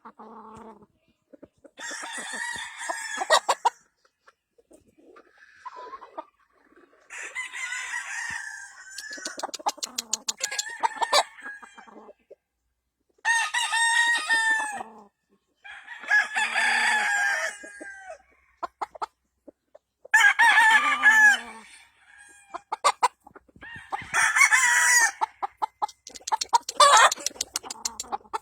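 Gamefowl roosters crowing again and again, about six or seven long crows a few seconds apart, with clucking and short sharp ticks between.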